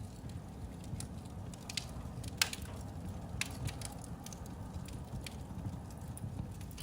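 Fire crackling in a fireplace: irregular sharp pops and snaps over a low steady rumble, with the loudest pop about two and a half seconds in.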